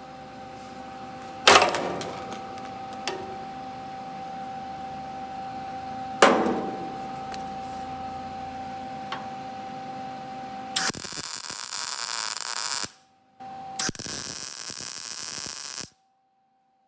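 Sheet-metal shop work: two sharp metal impacts that ring on, against a steady hum, then two harsh bursts of power-tool or welding noise about two seconds each.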